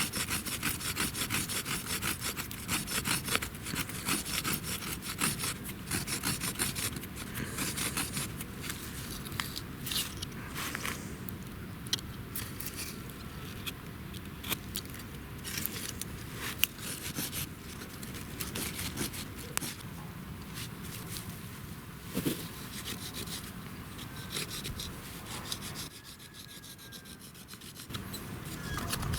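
A dry wooden branch is rubbed hard back and forth against crushed plant fibres in a hollow of half-rotten stump wood, to make fire by friction. The scraping strokes come quick and regular, ease off briefly near the end, then pick up again.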